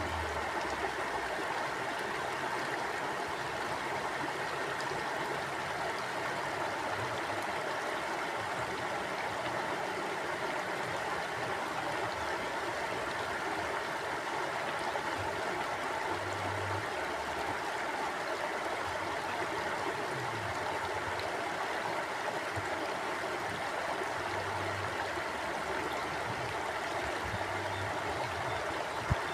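Stream water flowing steadily, a constant even rush with a few soft low bumps. A single sharp click sounds near the end.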